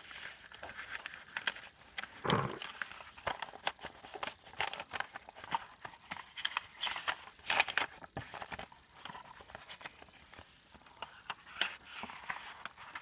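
Paper and card handled by hand: rustling and light taps as a small handmade paper book, tags and journaling papers are taken out and leafed through, with the loudest rustle about two seconds in.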